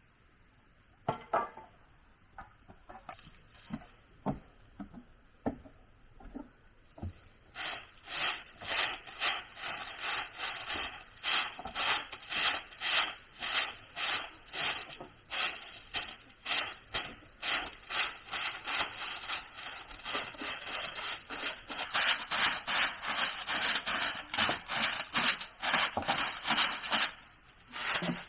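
Hand saw cutting through wood in steady back-and-forth strokes, about two a second, after a few light knocks at the start; the sawing stops shortly before the end.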